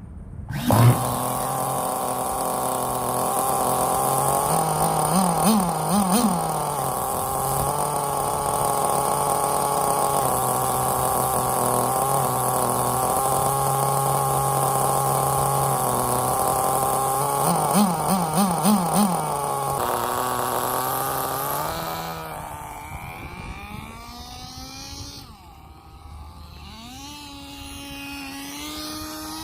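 Novarossi CX12 nitro glow engine of a 1/10 scale RC car idling loudly, with two short bursts of quick throttle blips. Near the end it gets quieter, its pitch rising and falling as the car drives off around the track.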